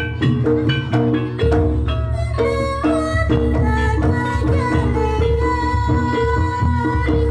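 Javanese jaranan (kuda lumping) accompaniment music: struck mallet notes and drums over a steady low beat, joined about two seconds in by a held, slightly bending melodic line.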